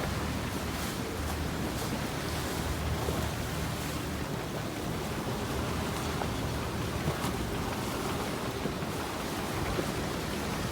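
Steady rushing noise of storm wind and choppy water around a sailboat, with wind buffeting the microphone.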